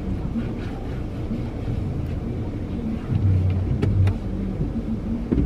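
Low vehicle rumble heard from inside a car cabin, swelling and easing, with a couple of sharp clicks about four seconds in.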